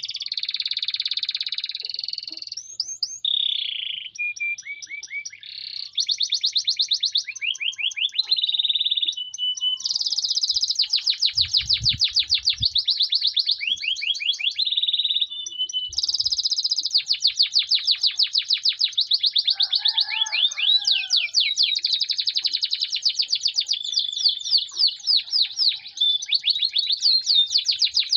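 A songbird singing a long, unbroken song of fast trills and rapidly repeated high notes, switching abruptly from one trilled phrase to the next.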